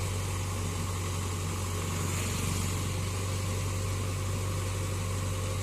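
Steady, unchanging low engine-like idling hum with a hiss over it.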